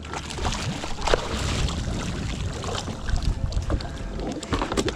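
Water sloshing and splashing around a fishing kayak, with wind buffeting the microphone and scattered small clicks and knocks throughout.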